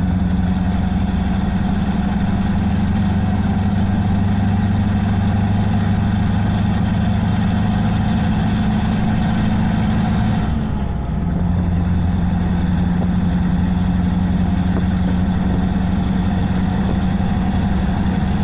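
Scania R500 truck's V8 diesel engine running steadily with a deep hum. The sound dips briefly about ten and a half seconds in, then settles back to the same steady note.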